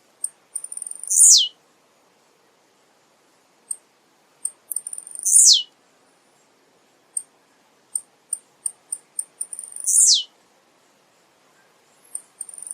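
Male blue-black grassquit (tiziu) singing. Each phrase is a run of high, quick ticks ending in one loud note that falls steeply in pitch. The phrases repeat every four to five seconds, three times, with a fourth starting at the very end.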